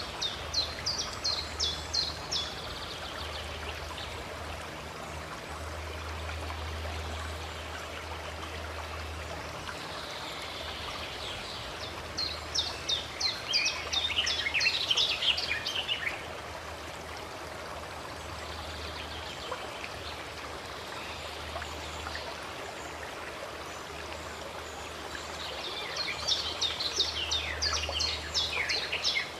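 Steady rushing of a flowing stream, with three bouts of fast, repeated bird song notes: one at the start, one about halfway through, and one near the end.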